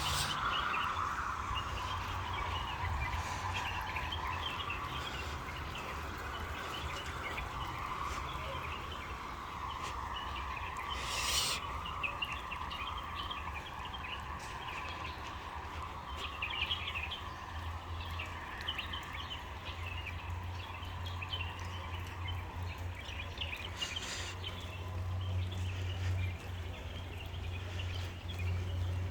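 Small birds chirping over a steady low background hum, with two brief swishes, about 11 and 24 seconds in.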